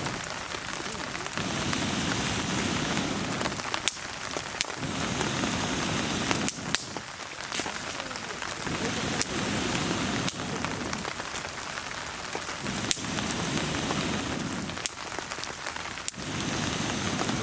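Steady rain hiss with sharp pops and crackles from a wood fire burning in a fire pit. The rain swells and eases about every three and a half seconds.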